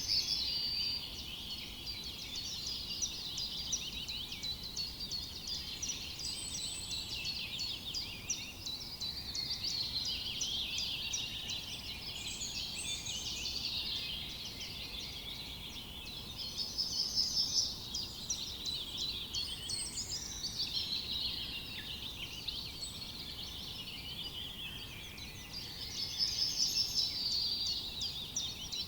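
Many birds singing at once in woodland: a dense, unbroken chorus of chirps and rapid trills. The song swells louder briefly about two-thirds of the way through and again near the end.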